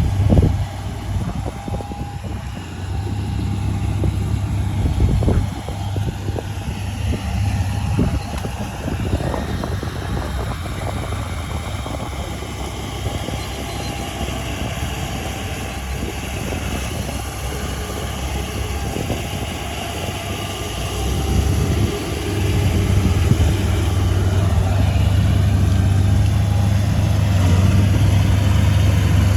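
Crawler bulldozer's diesel engine running steadily, with a few sharp clanks in the first ten seconds. The engine gets louder at about 22 seconds and stays that way.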